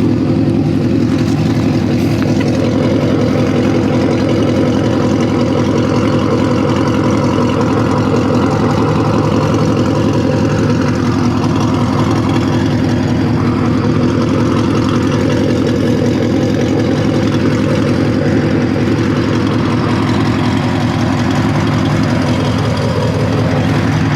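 Car engine idling steadily and loudly, its pitch holding level throughout.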